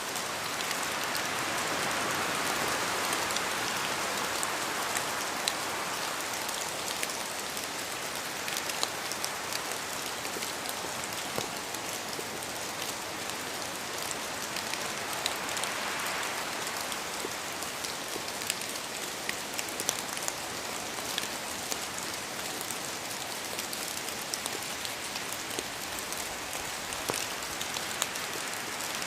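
Steady rain falling, with a dense hiss and scattered individual drops ticking on a surface; slightly heavier in the first few seconds.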